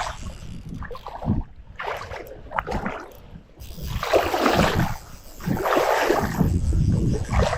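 Wind buffeting the microphone in uneven gusts, with water noise around a small boat; the level dips briefly about three seconds in.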